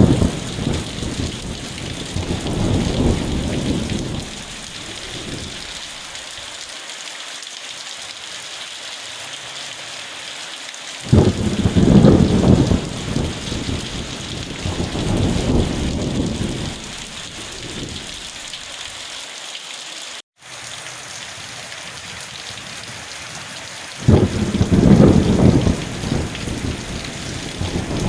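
Steady rain falling, with thunder rolling three times, each roll lasting several seconds. The sound cuts out for an instant about twenty seconds in.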